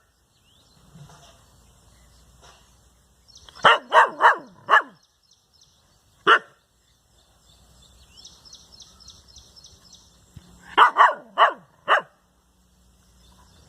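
A dog barking in short bursts: four quick barks about four seconds in, a single bark near six seconds, and four more about eleven seconds in.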